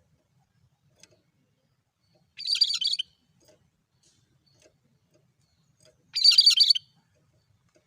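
Cucak kerinci singing two short, identical high-pitched phrases about three and a half seconds apart, each lasting just over half a second.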